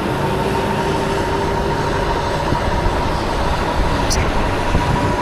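Steady wind and road noise from an electric bike riding on a wet street, with a thin steady whine through it. There is a single sharp tick about four seconds in.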